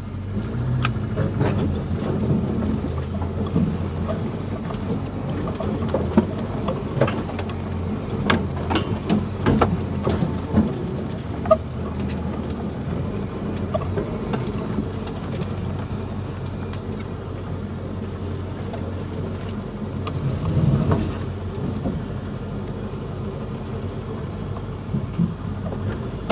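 Suzuki Jimny engine running steadily at low speed on a rough trail, with scattered knocks and clicks, thickest in the first half and again about 20 seconds in.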